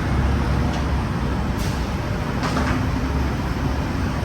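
New Orleans RTA streetcar arriving: a steady low rumble, with two brief hissing sounds in the middle.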